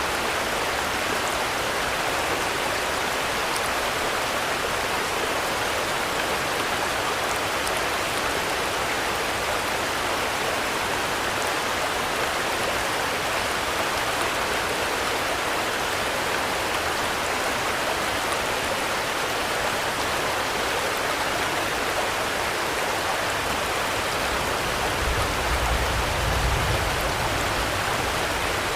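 Steady rain falling, an even hiss of drops without a break, with a brief low rumble near the end.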